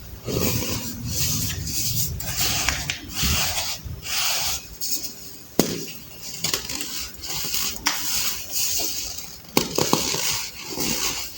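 Dried, compressed baking soda being crushed, crunching in irregular bursts, with sharp cracks about halfway through and again near the end.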